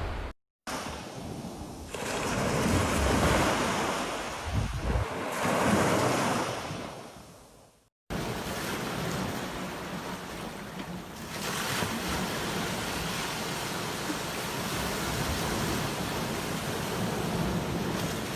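Sea waves washing onto a beach, in two separate recordings cut together: in the first, waves surge twice and then fade out; in the second, the surf runs more evenly, with a wave swelling about a third of the way through.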